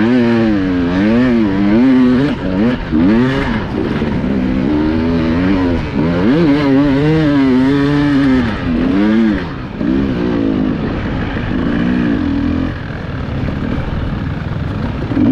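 Enduro motorcycle engine revving up and down in quick surges as the throttle is worked over rough ground, heard close up from the rider's onboard camera. Over the last few seconds it settles to a steadier, quieter note.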